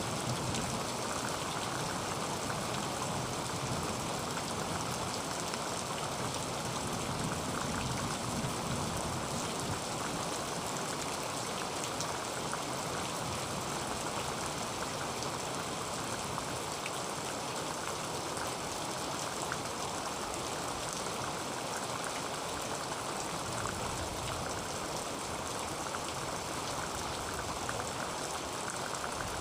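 Heavy rain falling steadily on a tin roof: an even hiss dotted with sharp ticks of single drops striking the metal.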